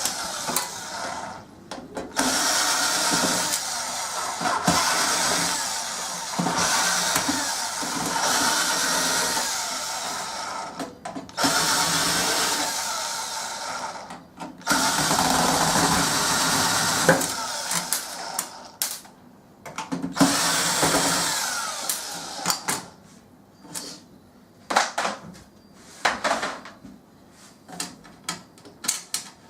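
Hand-held power drill running in several long bursts of a few seconds each, working on a microwave's casing. It is followed near the end by scattered clicks and knocks of metal parts being handled.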